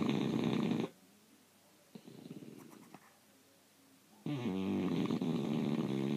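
Bulldog snoring in its sleep. A short loud snore at the start, a much softer breath about two seconds in, and a longer loud snore from about four seconds in.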